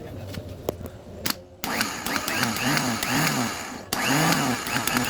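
Toyota L diesel engine being turned over by its starter motor without firing, its speed rising and falling in an even rhythm with each compression stroke. Cranking starts about one and a half seconds in, stops briefly near four seconds, then starts again.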